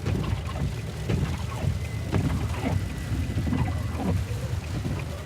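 Steady low road and engine rumble inside a moving car, with scattered light ticks.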